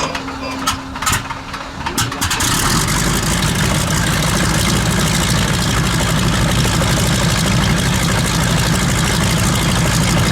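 A T6 Harvard's Pratt & Whitney R-1340 nine-cylinder radial engine starting: a few clicks and a steady whine, then about two and a half seconds in the engine catches and settles into a steady, loud idle heard from the cockpit.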